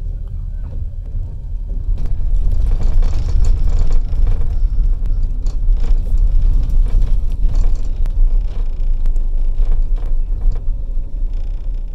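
Passenger train running on the track, heard from on board: a steady low rumble with scattered sharp clicks, growing louder about two seconds in.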